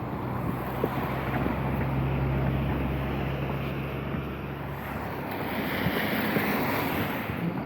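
Wet-road street traffic: a steady low engine hum for the first few seconds, then the hiss of tyres on wet asphalt swelling as a vehicle passes.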